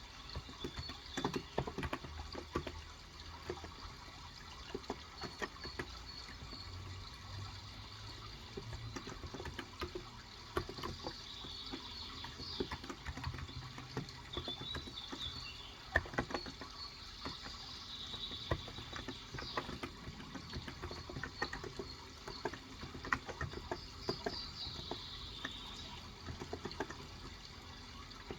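Steady typing on a Cox Endeavor electrostatic capacitive (Topre-style) keyboard with 35 g switches: soft, irregular keystrokes. Behind it runs a steady trickle of water, and birds chirp a few times.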